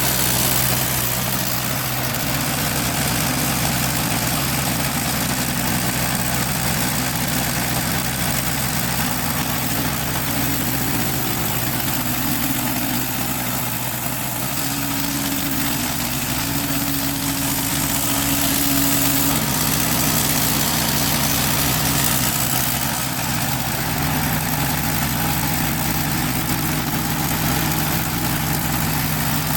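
Hudson Patriot portable band sawmill running steadily, its small gas engine driving the band blade through a log, with a brief higher hum in the middle of the cut.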